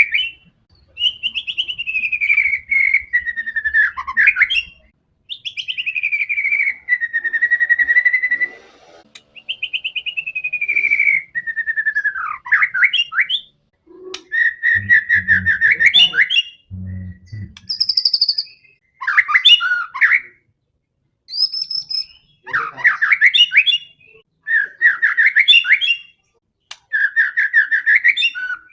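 White-rumped shama (murai batu) in full, combative song: a run of loud whistled phrases a second or few long with short pauses between, many gliding down in pitch, mixed with rapid trills and a few sharp high notes.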